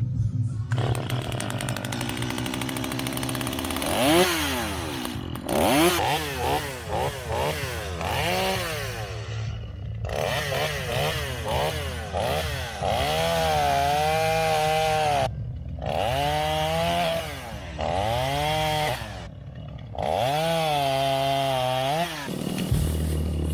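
Vintage two-stroke chainsaw running at cutting speed, its engine pitch rising and falling over and over as the saw revs and loads down in the wood. The sound drops out briefly several times.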